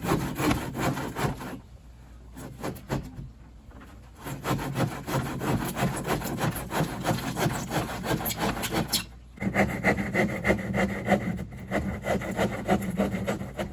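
A saw cutting through plywood sheeting in rapid rasping strokes. It stops about two seconds in, starts again about two seconds later, and from about nine seconds in carries a steadier pitched tone.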